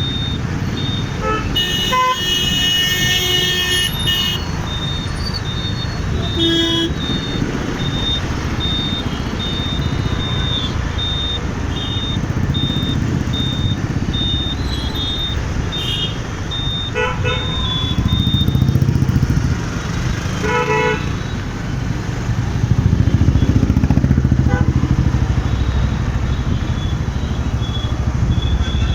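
City road traffic heard from a moving motorcycle: a steady rumble of engines and wind, louder in swells near the middle and later on, with vehicle horns honking several times, one long honk a couple of seconds in and short double beeps later. A high pulsing beep repeats through much of the first two-thirds.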